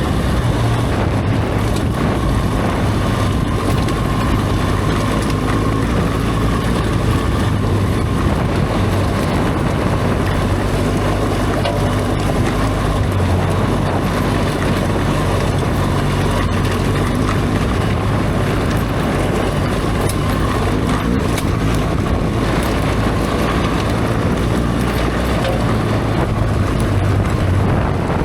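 BMW R1200GS Adventure's boxer-twin engine running steadily under way, with heavy wind noise on the microphone.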